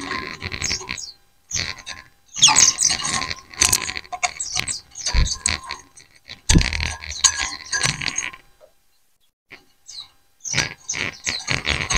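A flock of white-eyes chattering over one another in rapid bursts of high twittering, with a pause of about two seconds near the end. Two brief low thumps come in the middle.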